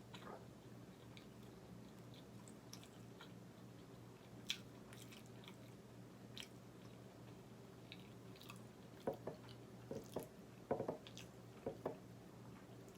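A person chewing food close to the microphone, with small wet mouth clicks throughout and a run of louder chews in the last few seconds.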